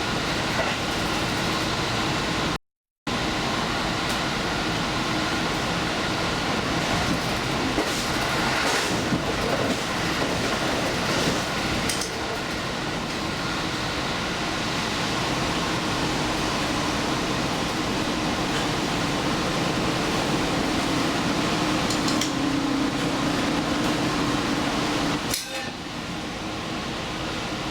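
Steady running noise of a diesel express train heard from on board: a continuous rumble and hiss of wheels on rail with a faint hum. A low tone rises slightly and stops about 25 seconds in. The sound cuts out for a moment about three seconds in.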